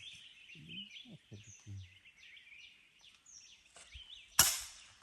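Many small birds chirping, short falling calls repeated over one another, with a single sharp crack about four seconds in that is the loudest sound.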